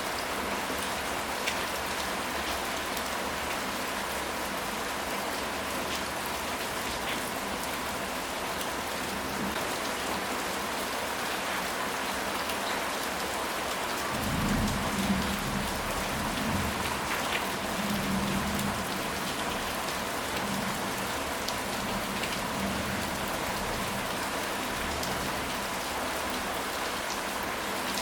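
Steady rain falling, with a low rumble of thunder about halfway through that fades away over several seconds.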